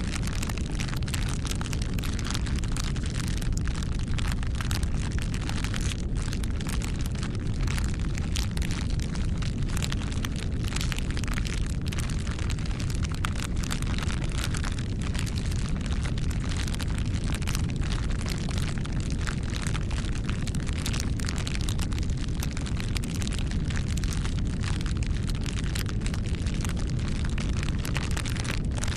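Wood fire burning with a low steady rumble and constant irregular crackles and pops.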